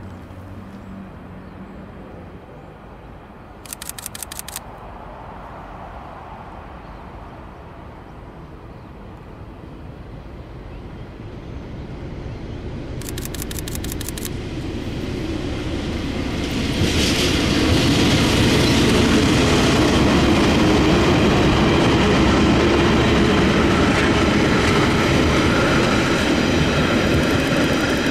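Passenger train hauled by two diesel-electric locomotives approaching and passing close by. The engine sound grows from about ten seconds in and is loudest from about seventeen seconds as the locomotives go past, then the carriages roll by. Two short bursts of rapid clicking come early, about four seconds in, and again about thirteen seconds in.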